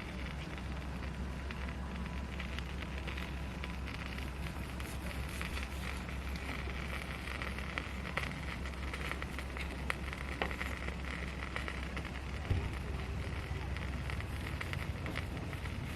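Wood fire crackling and hissing, with many small snaps and a few louder pops.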